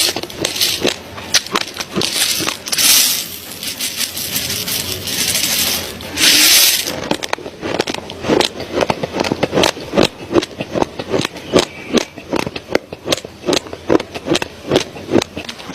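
Raw basmati rice grains being chewed close to the microphone: a run of sharp, crisp crunches several times a second. It is broken early on by two short bursts of rustling hiss.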